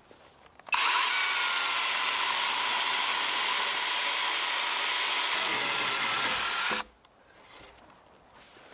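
Battery electric chainsaw cutting through a dry, dead ash log, starting suddenly about a second in and stopping suddenly near seven seconds.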